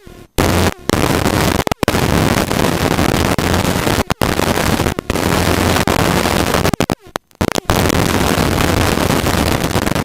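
Helicopter cabin noise from the engine and rotor, picked up through the headset intercom as a loud, harsh hiss with a low hum underneath. It cuts out abruptly for short moments several times.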